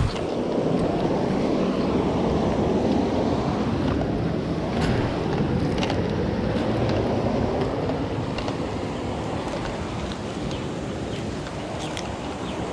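Fast-flowing stream water rushing steadily, with a few faint sharp clicks.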